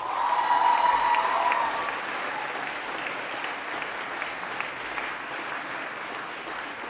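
Audience applauding, starting suddenly, loudest in the first couple of seconds, then steady and slowly fading. A short held high note sounds over the clapping at the start.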